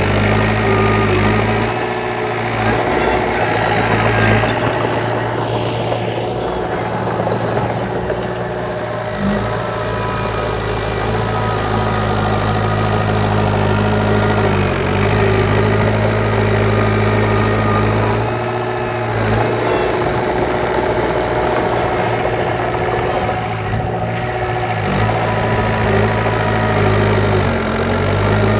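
Diesel engine of heavy earthmoving machinery running steadily, its pitch dipping briefly several times as the load changes.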